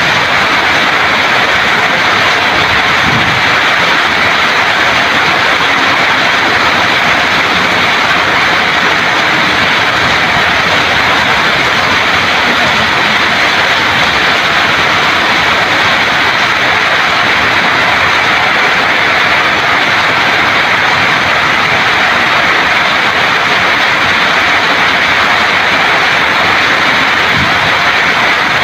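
Heavy rain pouring down steadily onto garden foliage, brick paving and waterlogged ground: a dense, even hiss of rain with no letup.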